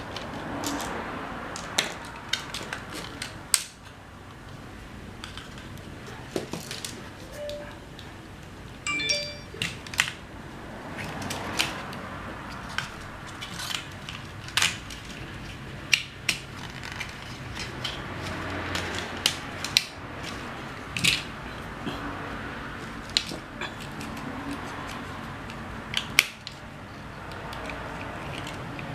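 Scattered sharp clicks and taps of small plastic parts and tools being handled while a drone is worked on, with a brief pitched chirp about nine seconds in.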